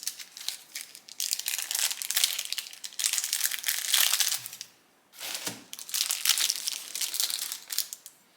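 Packaging crinkling and rustling as new motorcycle tank badges are unwrapped, in two long bouts with a short pause about five seconds in.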